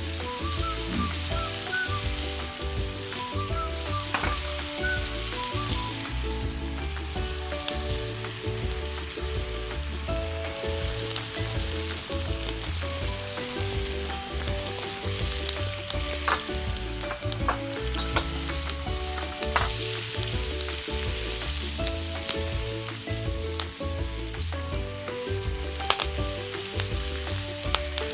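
Beef pepper rice sizzling steadily in a hot pan over a campfire while it is stirred, with scattered clicks and knocks of the utensil against the pan, a few sharper ones near the end. Background music with a bass line plays underneath.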